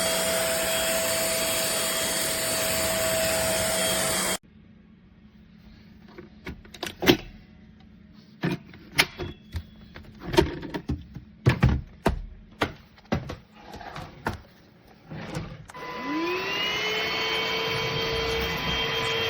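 Trucozie cordless stick vacuum running steadily, then cut off abruptly. Several seconds of sharp clicks and knocks follow as it is handled, then the motor starts again with a rising whine and settles into a steady run.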